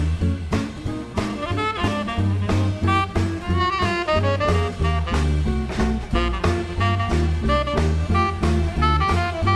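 A swing band plays an instrumental. Saxophones and brass carry the melody over an upright bass walking at an even pace and drums keeping steady time.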